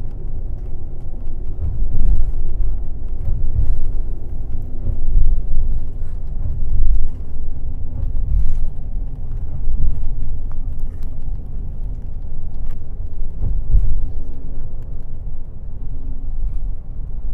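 Airport limousine bus under way, a continuous low engine and road rumble that swells and eases, with scattered knocks and rattles.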